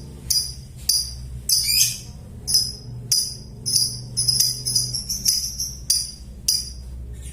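Lovebird giving its shrill 'ngekek' chatter, a string of short sharp chirps about two a second that come faster near the middle, over a steady low hum.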